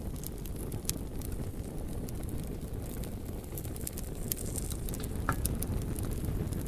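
Wood fire burning with a steady low rumble and irregular sharp crackles and pops, one slightly longer crack about five seconds in.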